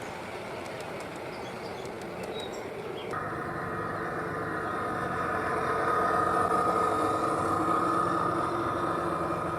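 G gauge model train running past, its motor and gear whine coming in suddenly about three seconds in, swelling to a peak near the middle and then easing as it moves away.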